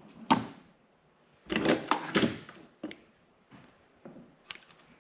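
Hand tools and wire being handled on a workbench while short harness wires are cut to length: a sharp click near the start, a cluster of clattering knocks around the middle, and single clicks later on.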